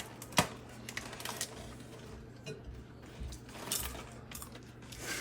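Kernels on a popcorn cob popping inside a paper popping sack in a microwave: sharp, scattered pops at irregular intervals over the oven's low steady hum.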